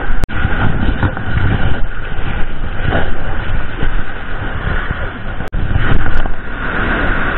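Heavy wind buffeting an action camera's microphone on an ocean beach, mixed with the wash of surf: a dense, steady rumble. The sound cuts out for an instant twice.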